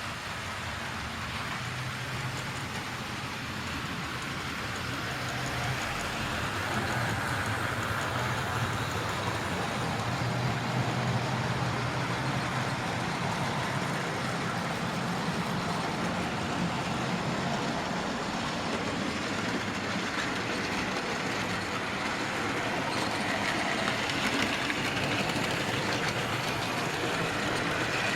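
Several 00 gauge model locomotives running at once on a model railway layout: their motors and wheels on the track make a steady whir that gets a little louder about six seconds in.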